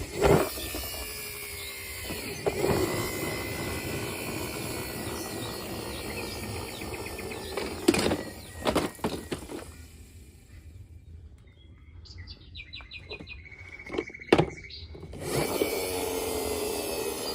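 Background noise with several sharp knocks and clatters, like hard objects being set down or bumped, and a short run of high, rapid chirping in a quieter stretch about three-quarters of the way through.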